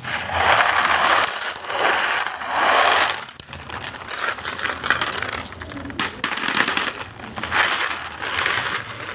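Many marbles rolling and clattering down a marble run track, a dense rattle of clicks that swells and fades in waves, loudest in the first few seconds.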